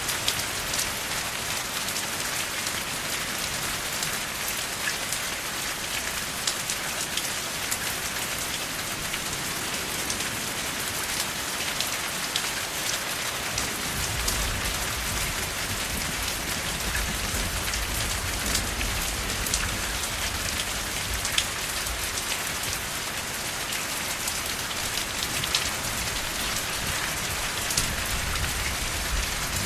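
Steady rain falling, with a dense patter of individual drops. About halfway through, a low rumble joins underneath and continues.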